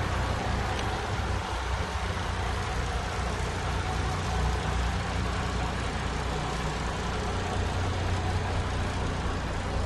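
Diesel engine of a MAN TGS 33.440 truck idling steadily, a low even rumble with no revving.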